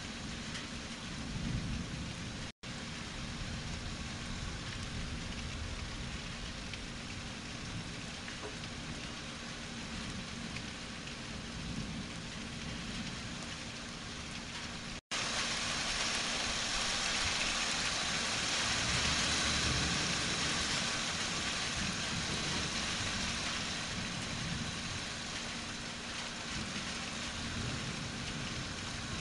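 Steady rain falling through a thunderstorm, with a low, uneven rumble underneath. The sound cuts out for an instant about two and a half seconds in and again about halfway through, and the rain is louder after the second break.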